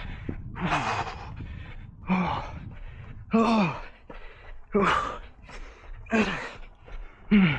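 A runner's hard, voiced breathing while running: a gasping exhalation about every second and a half, each falling in pitch, with noisy breaths in between. It is the heavy breathing of exhaustion late in a hard run.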